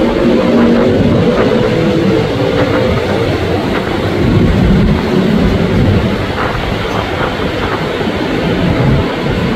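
An electric commuter train running along the track towards the station, a steady loud rumble of wheels on rail with scattered light clicks. A faint hum from the train sits under it for the first couple of seconds.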